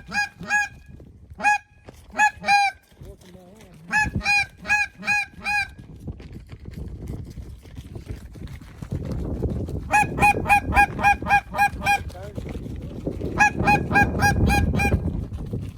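Goose call blown in quick runs of short, sharp honks and clucks, about four or five a second, in bursts with pauses between: a hunter calling a distant flock of geese in. A low rushing noise rises under the second half.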